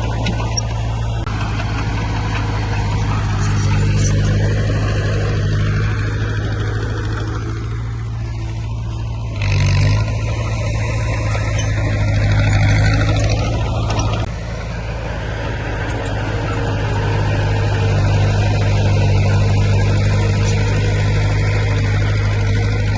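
Heavy diesel engine of earthmoving machinery running steadily under load, with its pitch rising and falling for a few seconds. There is a brief louder burst about ten seconds in.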